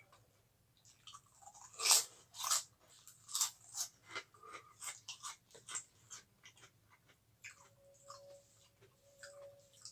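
Close-up chewing and crunching of fried krupuk crackers, a quick run of crisp crunches loudest about two seconds in, thinning out to softer chewing in the second half.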